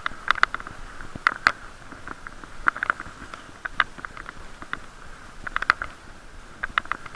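Irregular sharp taps and clicks, some in quick clusters, with a hollow ringing tone, picked up through a plastic waterproof camera case on a moving bicycle.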